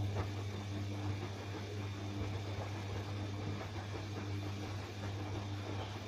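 Bosch washing machine running with a steady low hum and a light noise of water and movement above it.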